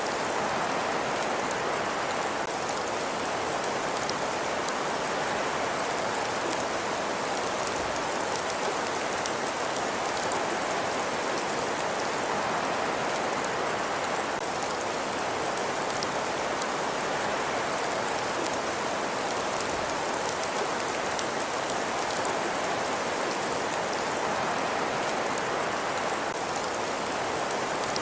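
Steady rain-like hiss of an ambience track, an even wash of falling drops with faint fine ticks and no change in level.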